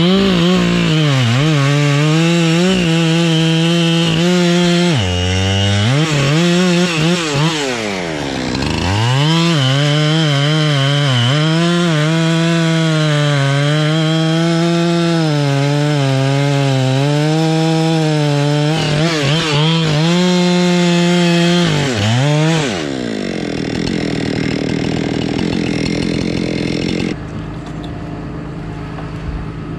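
Gas chainsaw running at high revs and cutting wood, its pitch sagging and recovering as it loads up in the cut, with brief drops about five and eight seconds in. About three-quarters of the way through it comes off the throttle and falls away, leaving a lower steady engine sound.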